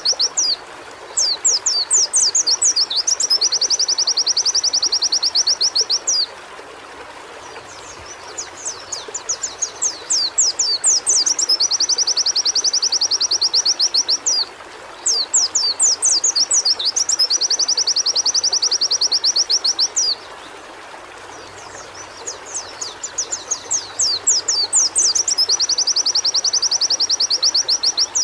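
White-eye (pleci) singing in very fast, high trills mixed with quick downward-sweeping notes, in phrases several seconds long with two short pauses. A steady faint hiss runs underneath.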